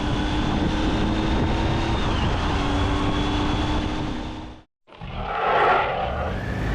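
Riding noise from a Triumph Tiger 800 motorcycle: engine and wind rushing steadily with a faint steady hum. It cuts out briefly about four and a half seconds in, then comes back with a louder rushing swell.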